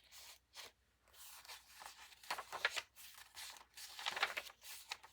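Paper rustling and crinkling as the pages of a handmade journal are turned and its tucked-in tags and papers handled: a string of irregular short rustles.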